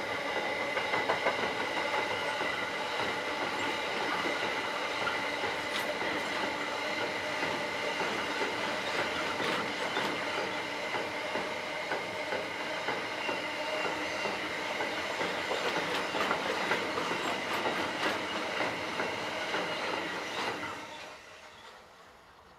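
Freight train of double-deck car-transporter wagons rolling past at close range: a steady clatter of wheels over the rail with a high ringing tone running through it. About twenty seconds in, as the last wagon passes, the sound falls away quickly.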